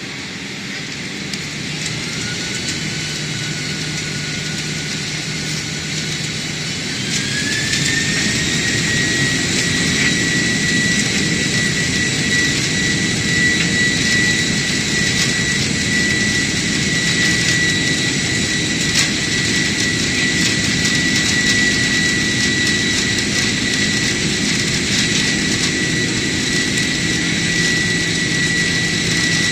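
Boeing 767's twin General Electric CF6 turbofans spooling up to takeoff thrust. A whine climbs in pitch and gets louder about seven seconds in, then holds steady over a loud jet rumble.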